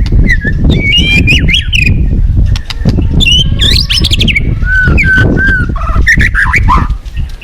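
White-rumped shama singing, with varied phrases of whistled notes that slide up and down, over the loud, steady rush of a fast-flowing river.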